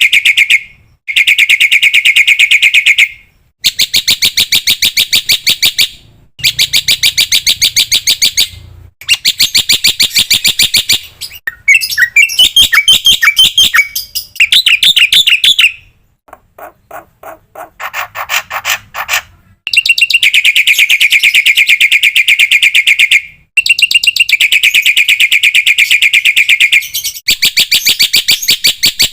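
Black-winged starling (jalak putih) song: long runs of rapid, harsh repeated notes broken by short pauses. A varied chattering passage comes about halfway through.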